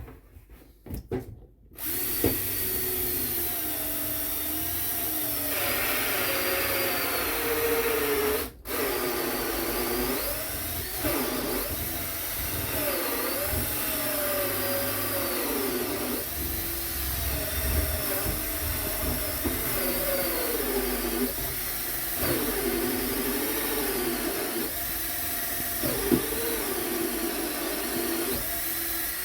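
Power drill driving a bi-metal hole saw through 25 mm MDF. The motor whine wavers up and down in pitch as the saw slows under load and picks up again. It stops briefly about eight seconds in, then keeps cutting; the cut is slow going, the metal-cutting teeth labouring through the board.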